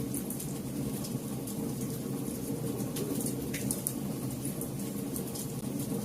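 Campfire burning: a steady low rumble of flames with frequent irregular crackles and pops of the burning wood.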